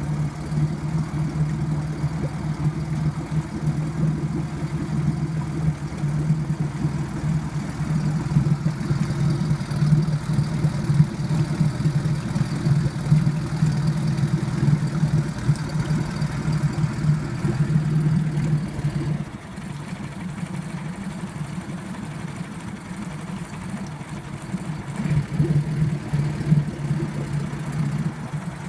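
Tohatsu MFS 9.9 D four-stroke outboard motor running in a barrel of water, a steady engine hum. About two-thirds of the way through it drops to a quieter, lower note, then picks up again briefly near the end.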